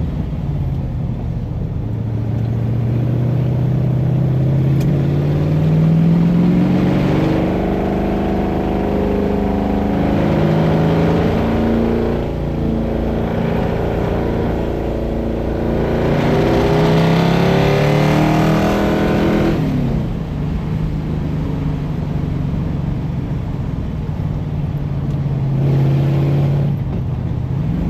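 Iso Grifo's V8 engine pulling up through the revs in several long rising sweeps under hard acceleration. The revs fall sharply about twenty seconds in, then climb again.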